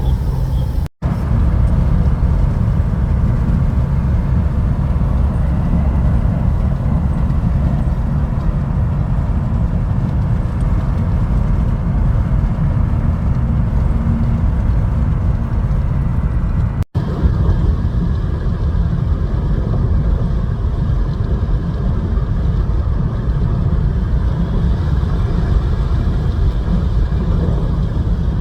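Steady low rumble of a moving vehicle, broken by two momentary dropouts, about a second in and again some sixteen seconds later.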